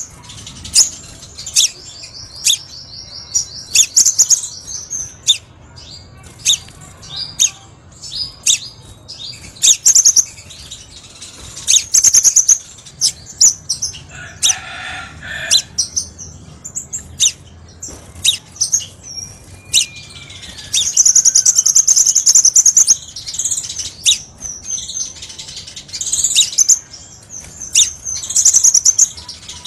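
Crimson sunbird (kolibri sepah raja) singing: a busy string of sharp, high-pitched ticks and chirps broken by fast trills, the longest trill coming about two-thirds of the way through. A lower, buzzier call sounds about halfway through.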